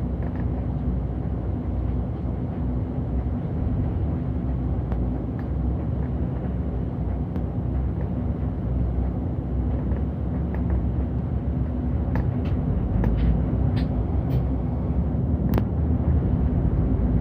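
Steady engine and road noise of a city bus heard from inside, with a low hum. A few sharp clicks and rattles come in the second half.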